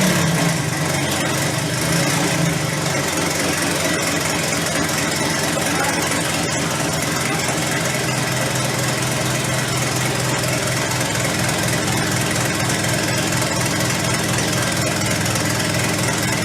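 V10 engine running on its first start, idling loud and steady. Its revs settle slightly lower about three seconds in. It is not running well, which the owner puts down to the direct injectors or the fuel pump on one cylinder bank.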